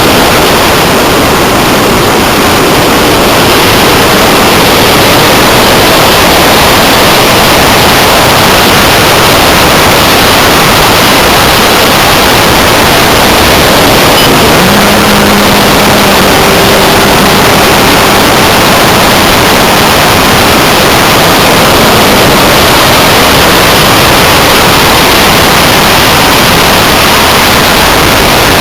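Loud, steady rush of airflow over a Multiplex Blizzard RC hotliner in flight, picked up by its onboard camera's microphone as wind noise.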